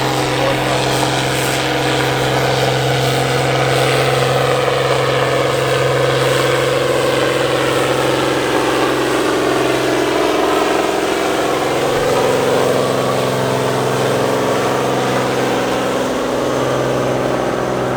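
International 1455XL tractor's diesel engine running steadily and loud, its pitch wavering slightly around the middle.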